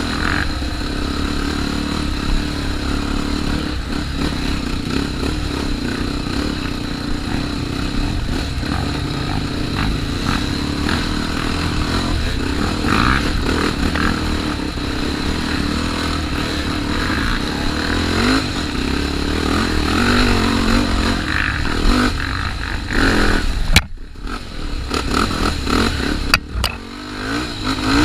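Trail motorcycle engine running on a dirt trail under shifting throttle, with the bike clattering over rough ground. Near the end a sharp knock comes, and the engine sound drops out briefly twice.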